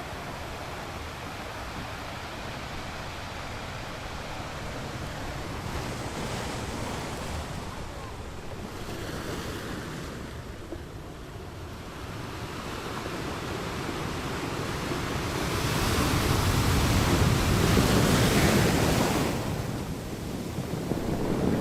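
Ocean waves breaking on a beach: a steady wash of surf that builds slowly to a loud crash about two-thirds of the way in, eases off, then swells again near the end. Wind noise on the microphone runs through it.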